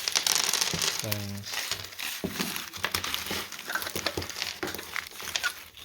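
Crinkling rustle and a scatter of small clicks from hands handling objects, busiest in the first second.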